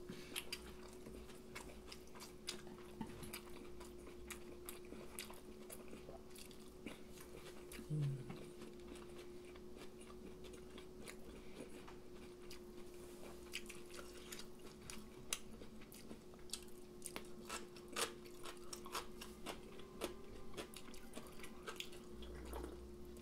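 Close-miked chewing and biting of fried cutlet, fried chicken and rice, with many small crisp clicks and light crunches. A faint steady hum runs underneath.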